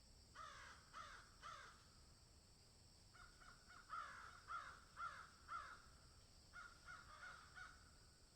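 A crow cawing faintly in three bouts of short, harsh calls: three caws, then a louder run of several, then a few softer ones.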